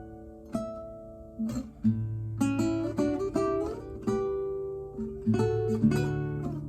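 Nylon-string classical guitar, a copy of the Torres FE-18, played solo: single plucked notes and chords ringing over held bass notes.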